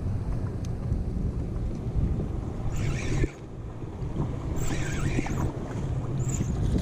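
Wind buffeting the microphone in a steady low rumble, with two brief splashes of water about three and five seconds in.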